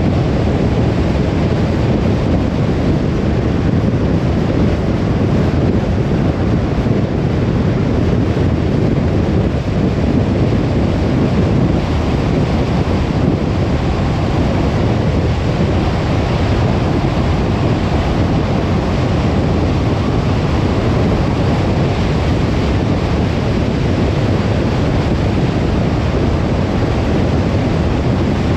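Steady road and tyre noise with wind rush inside a moving car's cabin: an even, deep rumble that does not change.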